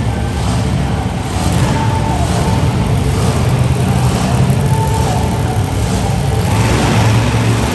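Monster truck engine running loud, its note swelling a few times.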